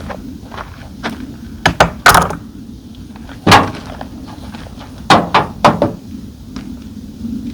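Sharp knocks and clunks of hard gear being handled while packing away a roof-top tent on a pickup bed: a pair of quick knocks about a second and a half in, a heavier clunk just after two seconds, another loud one about three and a half seconds in, and three more in quick succession around five seconds.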